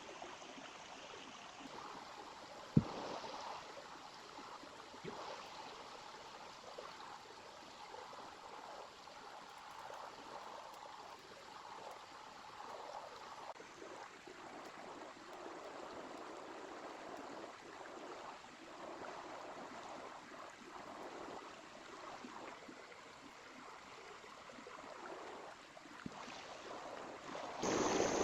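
Small river flowing and trickling in a steady, even rush. There is one sharp knock about three seconds in. The water sound jumps suddenly louder just before the end.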